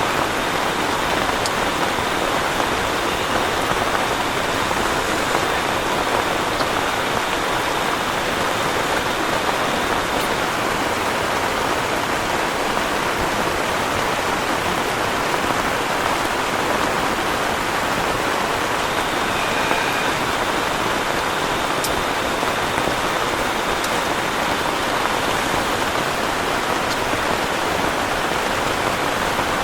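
Heavy rain falling steadily, an even, unbroken hiss of rain with a few scattered drop ticks.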